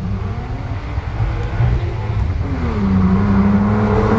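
Car engine accelerating hard up a steep hill: the revs climb near the start, fall back, then rise again about two and a half seconds in and hold steady under load.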